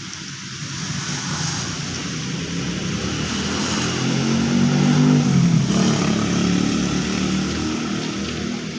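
Steady heavy rain hissing, with a motor vehicle's engine drone approaching, loudest about five seconds in, then fading away as it passes.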